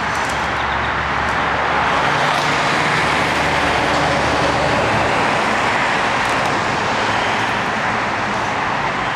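Steady noise of heavy freeway traffic, with the lower hum of a passing vehicle's engine that fades about five seconds in.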